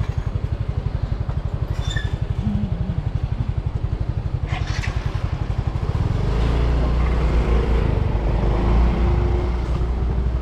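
Motorbike engine running while riding, heard as a rapid, even low pulsing. About six seconds in it turns into a louder, steadier rumble, and there is a brief clatter around the middle.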